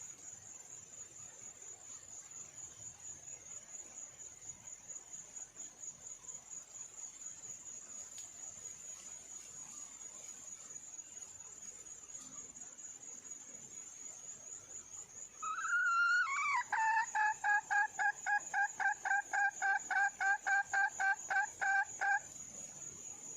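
Red junglefowl hen (wild hen) calling: a rising note about two-thirds of the way in, then a rapid run of repeated clucking notes, about three a second, for some six seconds. A steady high insect drone runs throughout.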